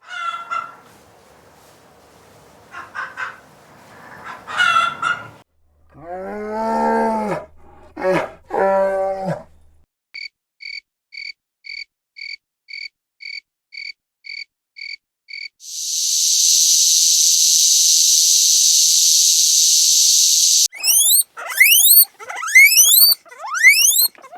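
A run of different animal calls played one after another: a few scattered calls, then pitched wavering calls, then a rapid even chirping of about three per second, then a loud steady insect-like buzz lasting about five seconds, and finally a series of quick rising whistled notes.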